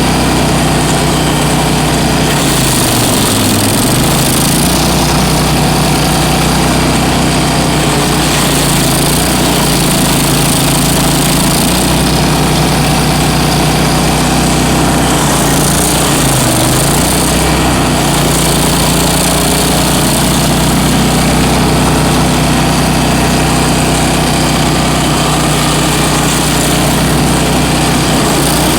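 Bandit ZT1844 stump grinder's engine running loudly and steadily, dipping briefly in pitch twice, about three seconds in and again about sixteen seconds in.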